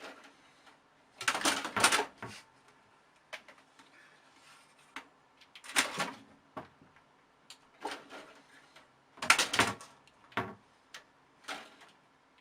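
Irregular clattering knocks and scraping rustles in a small room, coming in short bursts a few seconds apart.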